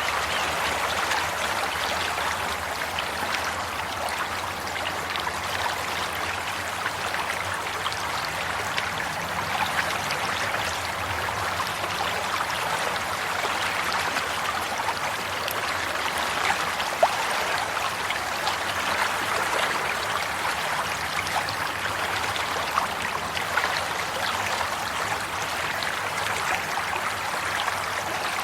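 Water flowing and trickling steadily, like a small stream or brook, with many small splashes and one brief louder splash about 17 seconds in.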